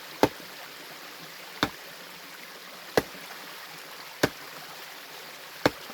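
Hand tool swung against hard stream bedrock: five sharp strikes, about one every second and a half, over the steady rush of a stream.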